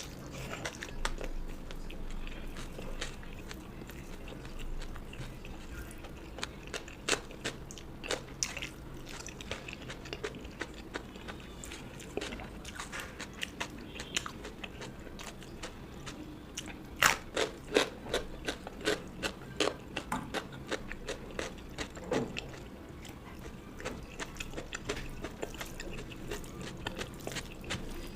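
Close-up eating sounds: a person chewing and biting into food, with crisp crunches. A run of loud, quick crunches comes in the middle, about two to three a second.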